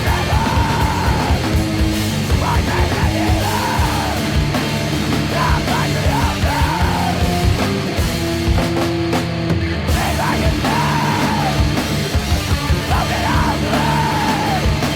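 Loud, heavy punk-rock song: distorted guitars and pounding drums with yelled, screamed vocals.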